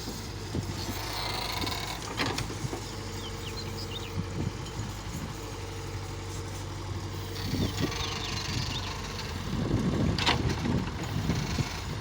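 Engine of a heavy machine running steadily, with a louder, uneven rumbling setting in for the last couple of seconds.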